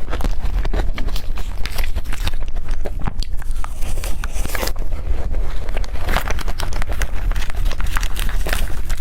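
Close-miked eating: chewing and biting with many small, quick mouth clicks and smacks.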